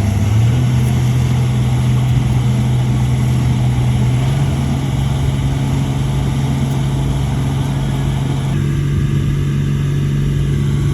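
Heavy earthmoving machine's diesel engine running steadily on one held note, which climbs slightly in the first half second. A little after eight seconds the upper part of the sound drops away while the low hum carries on.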